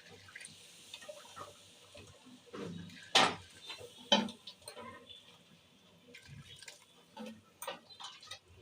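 A cooking spoon knocking and scraping against a pot as the cooked chicken is added to and stirred into the rice for biryani: scattered light clicks, with two louder knocks about three and four seconds in.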